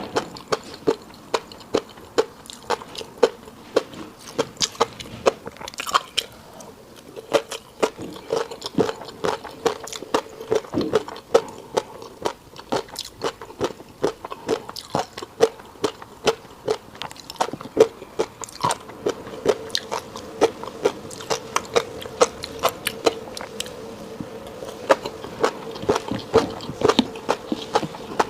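Close-up eating sounds: someone chewing a fish roe rice bowl, with many sharp, irregular clicks and pops, several a second, as the roe bursts between the teeth.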